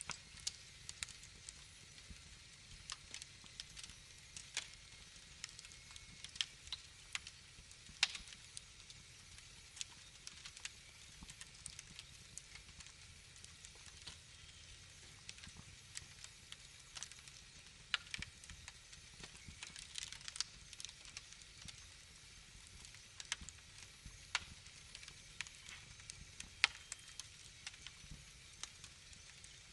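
Wood fire crackling in a fireplace: a low steady hiss with frequent irregular pops and snaps, one sharper pop near the end.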